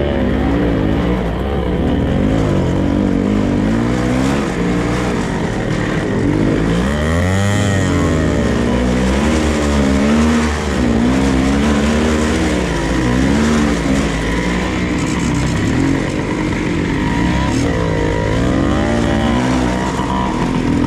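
Dirt bike engine running under way, its pitch repeatedly rising and falling as the throttle is opened and closed.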